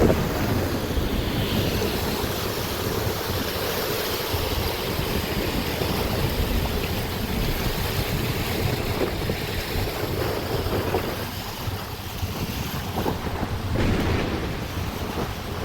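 Heavy rainstorm: a steady roar of rain and wind, with gusts buffeting the microphone, swelling briefly near the end.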